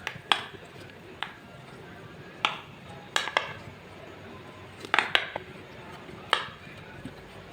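Slime being mixed and handled, giving irregular sharp clicks and pops, about nine in all, over a low steady hiss.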